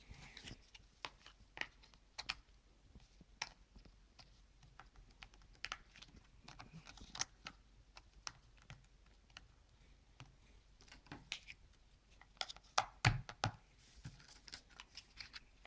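Cardboard jigsaw puzzle pieces being handled and pressed into place in a puzzle book: scattered light clicks and taps, with a run of louder knocks about 13 seconds in.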